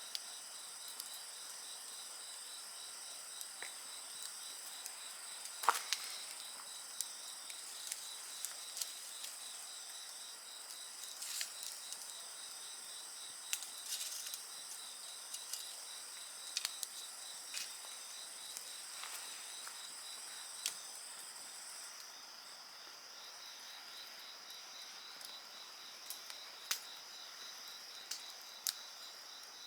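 Insects calling steadily in several high-pitched trills, with a wood fire crackling in scattered sharp snaps and pops, the loudest about six seconds in. The highest of the insect trills stops a little after two-thirds of the way through.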